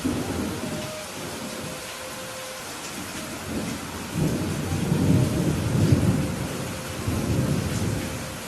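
Steady rain with thunder rumbling over it: a rumble starts suddenly at the beginning and dies down, then a longer, louder roll of thunder builds from about three and a half seconds in, peaks around five to six seconds, and fades near the end.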